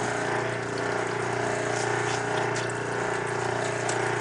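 Old Kenmore wringer washing machine's electric motor running with a steady hum while its built-in drain pump pumps the wash water out through a hose.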